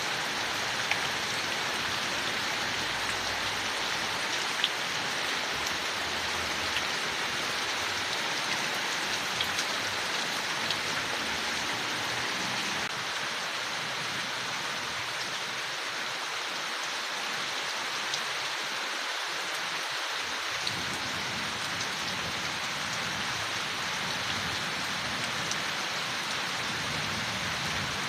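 Steady rain falling on leaves, an even patter with a few sharper individual drops.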